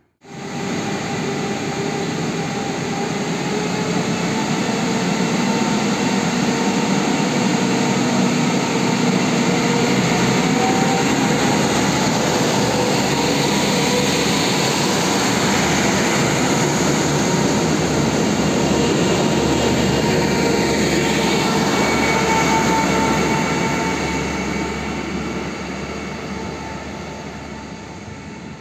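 Newag Impuls 2 hybrid multiple unit running close by, a steady loud running noise with a few sustained tones in it. It pulls away over the last few seconds, and the sound fades.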